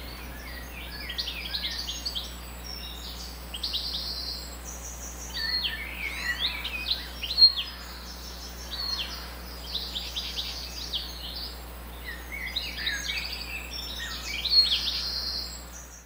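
Birds singing and chirping: bursts of quick high notes and short down-slurred calls, with brief pauses between phrases, over a faint steady low hum.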